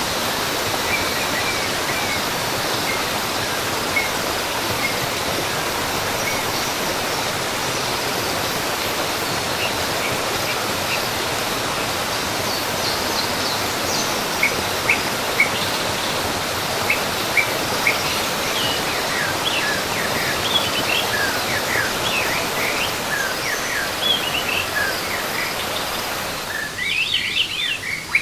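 Steady rush of falling water with birds chirping over it, the short chirps growing busier from about halfway. Near the end the water fades away, leaving only the bird chirps.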